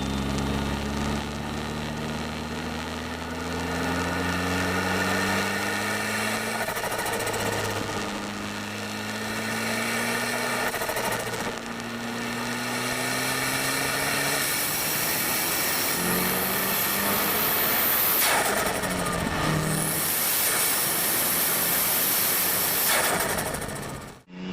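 Turbocharged car engine pulling hard through the gears, its pitch climbing and dropping back at each shift. From about fifteen seconds in, a loud high hiss of air joins it, broken twice.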